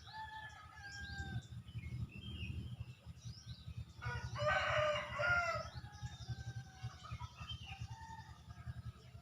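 A rooster crowing once, about four seconds in, over many small birds chirping. A low rumble runs underneath.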